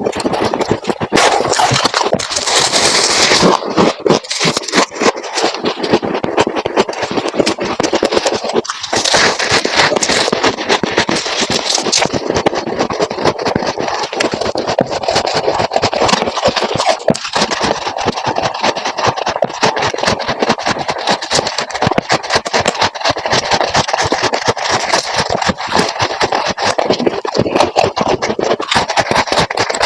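Freezer frost ice being scraped and crunched at close range: a dense, continuous crackle of fine gritty clicks, sharper and brighter about two to three seconds in and again around ten seconds.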